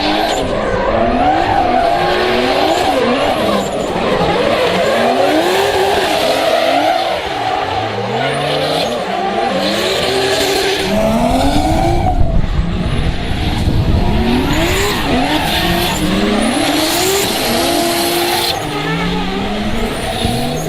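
Toyota Supra Mk4's 2JZ inline-six engine revving hard during a drift, its pitch climbing and dropping again and again, with tyres squealing and skidding throughout.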